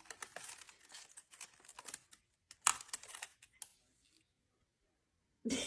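A quick, irregular run of light clicks and taps that stops a little over three and a half seconds in.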